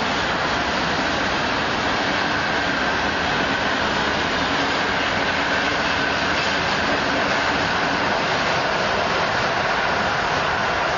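Freight train wagons rolling past on the track: a steady, unbroken running noise of wheels on rail.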